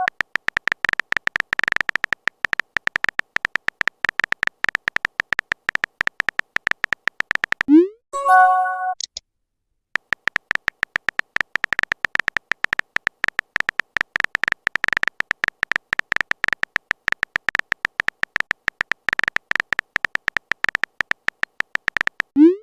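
Rapid keyboard-typing clicks as a chat message is typed, broken about eight seconds in by a message-sent chime: a short rising tone, then a bright chord of several notes. The typing clicks start again after a brief pause, and another chime begins right at the end.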